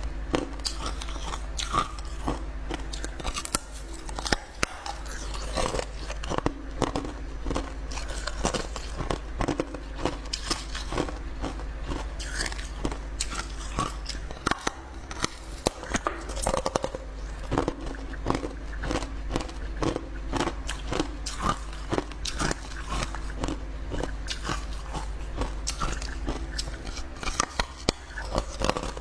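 Clear ice being bitten and chewed close to the microphone: a dense, irregular run of sharp crunches and cracks, several a second, over a low steady hum.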